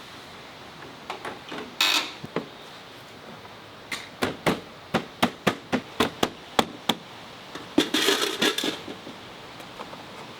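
Hand-tool work on scooter parts: a run of about a dozen sharp knocks, three or four a second, between a few scattered knocks and a brief rattling clatter near the end.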